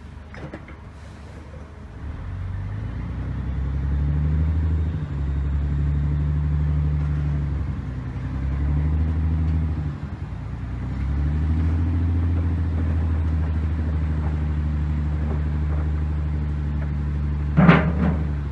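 Heavy earthmoving machine's diesel engine working, its note rising and falling under changing load several times, with one sharp knock near the end.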